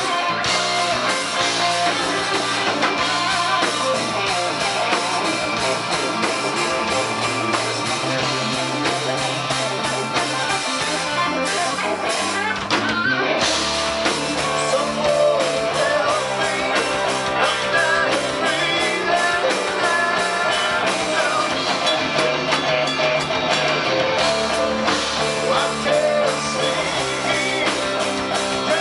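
Rock band playing live, with guitars, bass and drums.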